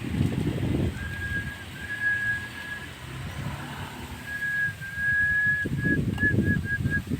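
Javan myna (jalak kebo) whistling long, flat notes held at one pitch, then a quick run of short whistles near the end, over a low rumbling background noise.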